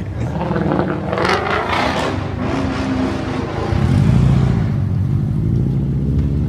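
A car drifting: engine revving with a noisy tyre scrub for about two seconds, then a deep, steady engine note grows louder about four seconds in.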